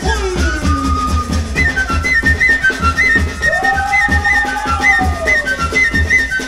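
Peruvian Amazonian folk dance music: a high flute melody of short repeated notes over a fast, steady low beat, with a long sliding note that rises and falls midway.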